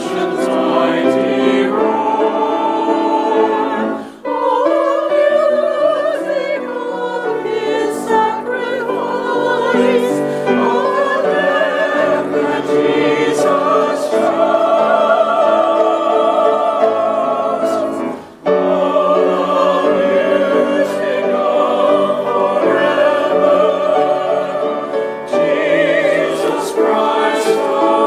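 Church choir singing with vibrato, with two short breaks between phrases, about four seconds in and again a little after eighteen seconds.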